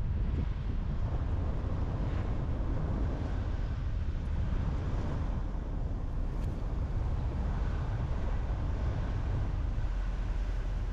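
A car driving at steady speed: a constant rumble of tyres and engine with road noise.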